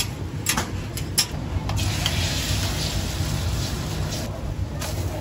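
Scallion egg pancake frying on a griddle: a hissing sizzle that swells in the middle, with a few sharp clicks early on over a low steady rumble.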